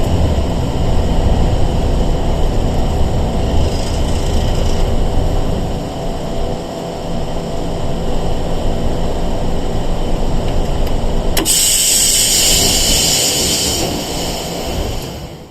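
Interior running noise of a Sangi Railway 101 series electric train: a steady low rumble of motors and wheels on the rails. About eleven seconds in there is a sharp click, followed by a loud hiss lasting about two seconds.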